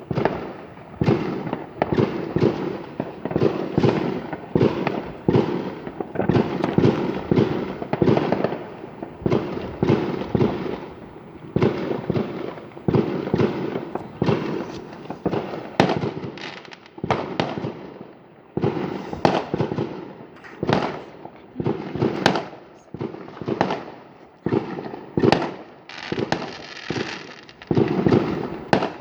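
Fireworks going off in a dense barrage: sharp bangs in quick succession, often several a second, each trailing off.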